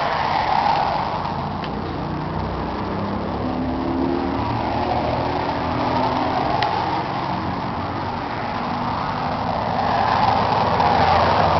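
John Deere 4955 tractor's six-cylinder turbocharged diesel engine running steadily, growing louder near the end.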